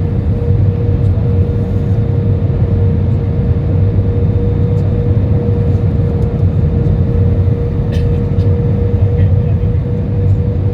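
Airbus A320 cabin noise heard from a window seat: the engines and airflow make a steady, deep rumble, with a constant whine running through it.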